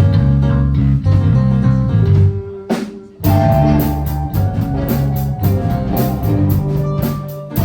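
Live band playing an instrumental passage on guitar, bass and drum kit. The band stops briefly about two and a half seconds in, then comes back in with repeated cymbal hits.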